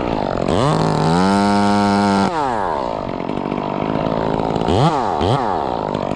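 Chainsaw engine revved up to full throttle and held for over a second, then dropping back to a lower idle, with two quick throttle blips near the end.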